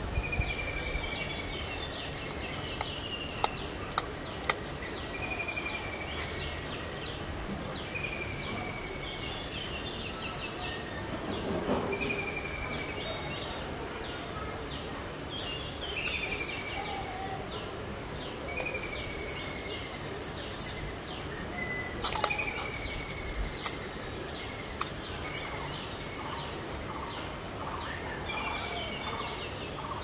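Birds calling in a tree: a short, slightly falling whistled note repeats about every one and a half to two seconds throughout. Bursts of sharp, high chirps come near the start and again in the last third.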